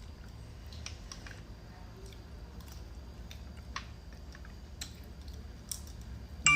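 Scattered small clicks and crunches of someone eating seafood, handling and chewing shrimp and shells. Right at the end comes a sharp, ringing clink.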